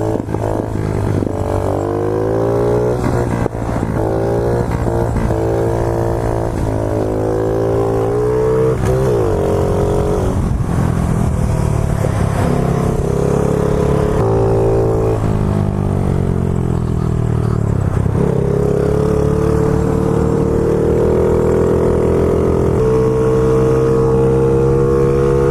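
A 50cc pit bike engine being ridden hard. Its pitch climbs under throttle, then drops sharply at each gear change, several times over, before holding high near the end at top speed.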